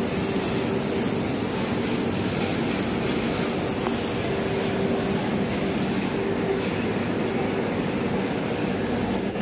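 A train running with a steady hum under continuous noise, with no clear change.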